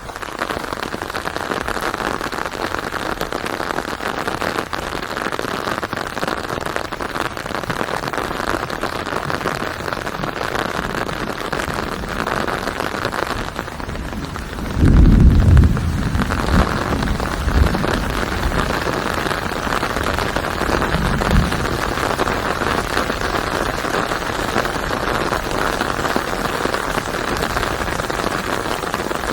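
Steady rain falling on a surface, a dense even patter. About halfway through there is a brief loud low rumble, with two smaller low thumps a few seconds later.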